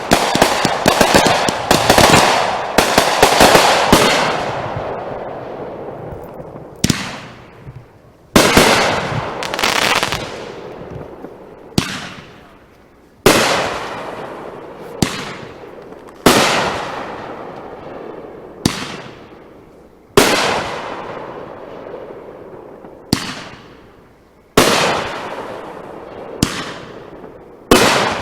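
Consumer fireworks going off: a dense, rapid volley of bangs for the first few seconds, then single loud bangs every two or three seconds, each trailing off in a fading crackle.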